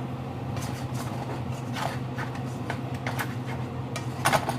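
A utensil scraping and clinking a few times in a pot or pan, over a steady low hum.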